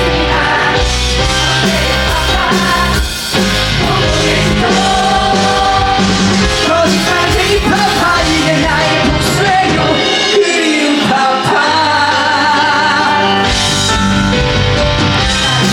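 Live musical-theatre band playing an upbeat rock-style song with voices singing over it. The bass and drums drop out for a few seconds about ten seconds in, leaving the voices, then come back in.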